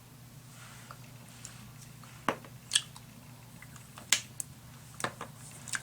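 Small sharp clicks and taps, about six of them in the second half, from handling a blush compact and makeup brush, after a soft brushing sound early on.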